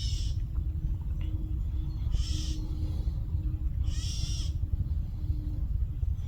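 Adult birds squawking in alarm while mobbing a snake at their nest: three short, harsh calls about two seconds apart, over a steady low rumble.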